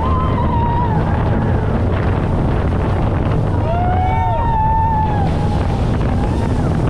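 Speedboat with 900 horsepower of engines running steadily at speed, with wind buffeting the microphone and water rushing past the hull.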